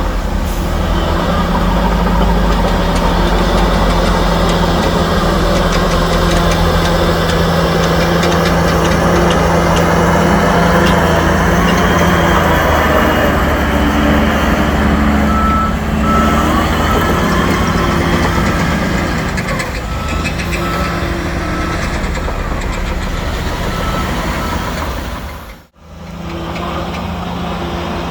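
Heavy diesel earthmoving machinery running, with a reversing alarm beeping in a steady repeating pattern at the start and again from about halfway. The sound drops out for a moment near the end.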